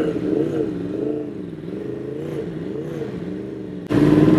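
Motorcycle engine running, its pitch wavering up and down with the throttle. Near the end the sound jumps abruptly to a louder, steadier engine note.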